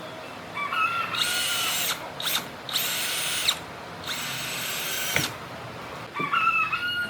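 Electric drill run in several short bursts of a second or so, some winding up in pitch as the motor starts, with brief pauses between.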